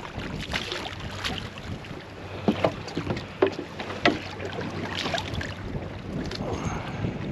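Water slapping and lapping against a small boat's hull, with wind on the microphone and a few sharp knocks and splashes, the loudest about two and a half, three and a half and four seconds in.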